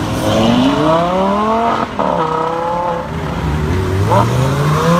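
Lamborghini Gallardo's V10 engine accelerating hard as the car pulls away. The revs climb, drop at a gear change just under two seconds in, then climb again from about three and a half seconds.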